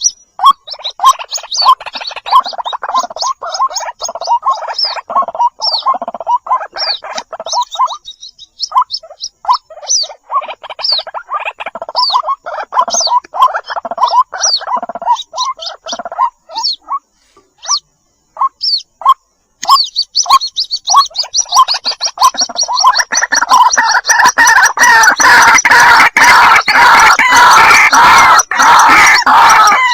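White-breasted waterhen chicks calling for their mother: runs of rapid, repeated peeping chirps with two short pauses, thickening about three-quarters of the way through into a dense, loud, continuous chorus.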